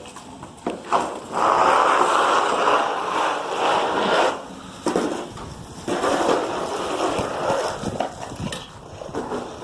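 Snow crunching and scraping in two long, rough stretches with a short quieter gap between them.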